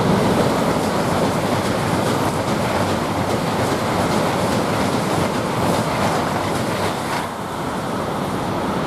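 Eurostar Class 374 (Siemens Velaro) electric high-speed train running through the station: a steady rush of wheel and air noise with repeated clicks of the wheels over the rail joints. It eases off slightly about seven seconds in as the train moves away.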